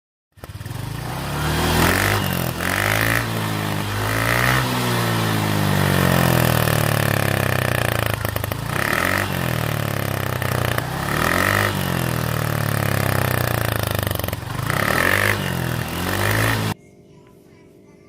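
Motorcycle with a loud modified 'mber' exhaust, revved up and down over and over, then stopping suddenly near the end.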